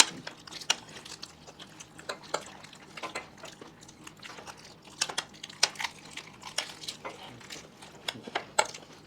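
Spoon, fork and chopsticks clicking and scraping against a dish while pieces of dahi puchka are picked up and eaten, in irregular sharp clicks, a few each second. The sharpest click comes at the very start.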